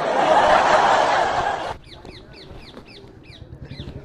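A loud rush of noise that cuts off suddenly just under two seconds in, then a bird calling in a run of short falling chirps, a few a second.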